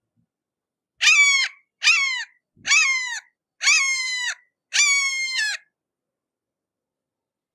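Red-shouldered hawk calling: five screams in quick succession, each note dropping in pitch at its end.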